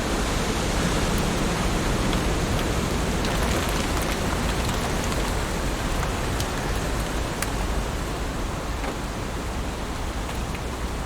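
Heavy rain falling steadily on leaves, a dense even hiss with scattered sharper drop ticks.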